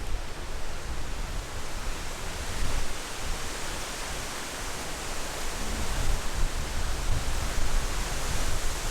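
Strong wind blowing through trees as a steady rushing noise, with gusts buffeting the microphone as low rumbles.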